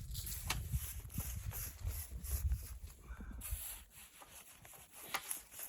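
Hand saw cutting wood in repeated strokes, about two a second, stopping about three and a half seconds in.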